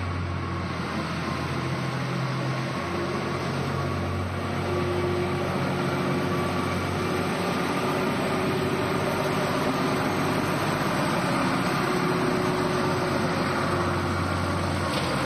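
Tractor engine running steadily, with a constant hum.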